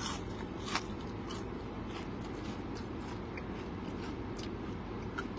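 Chewing a bite of battered fried onion ring dipped in ketchup, with a few soft crunches in the first second, over a steady low hum in a car cabin.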